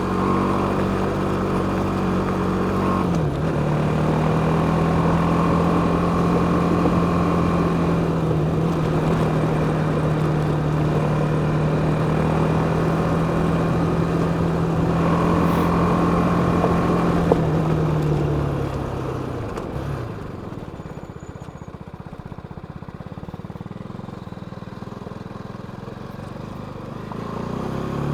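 BMW G310GS single-cylinder motorcycle engine running under way on an off-road track, with wind noise. It holds a steady pitch, drops a little about three seconds in, then falls away around eighteen seconds in to a quieter stretch of coasting and picks up again near the end.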